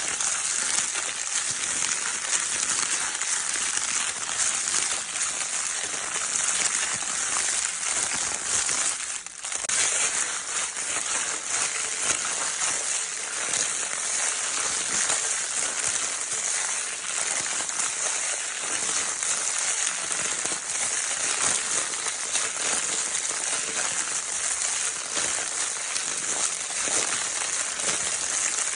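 Crinkle paper baby toy being crinkled continuously: a dense, steady crackling rustle, briefly easing off about nine seconds in.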